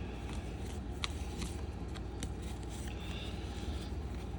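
Faint clicks and light rustling of trading cards being handled and flipped through, over a steady low background hum.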